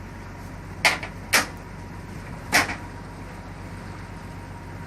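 Three short, sharp noises over a steady low hum: two about half a second apart near the start, and a third about a second later.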